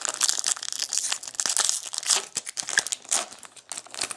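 Baseball card pack wrapper being torn open and crinkled by hand: dense crackling and rustling that dies down near the end.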